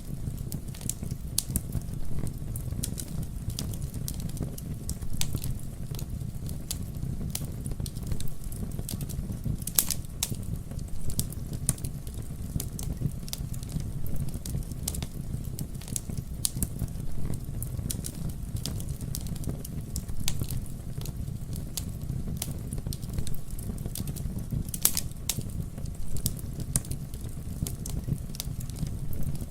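Wood campfire burning: a steady low rumble of flame under frequent sharp crackles and pops, with a couple of louder snaps about a third of the way in and again near the end.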